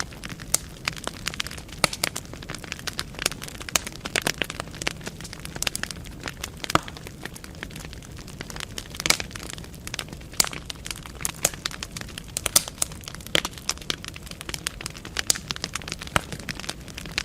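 Burning logs crackling in a fireplace: irregular sharp pops and snaps, several a second, over a low steady roar of flame.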